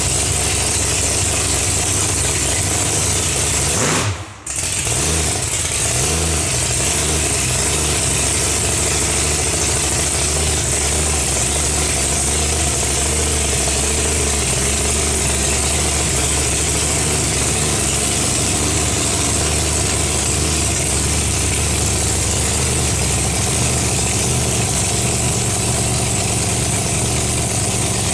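Rat rod coupe's engine idling through open zoomie headers. About four seconds in the sound drops out for a moment, then it runs on steadily.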